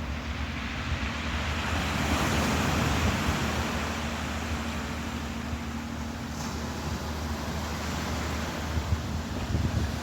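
Ocean waves washing in a steady rush that swells about two seconds in, with wind buffeting the microphone and a low steady hum underneath.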